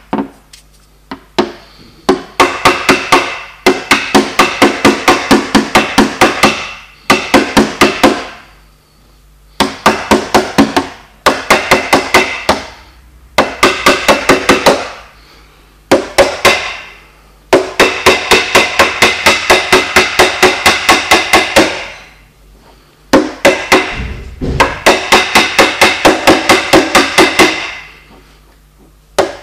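Small hammer rapidly tapping a knockdown punch against a car's sheet-metal body panel, about four or five light strikes a second in runs of a few seconds with short pauses, the panel ringing after each tap: paintless dent repair tap-down work.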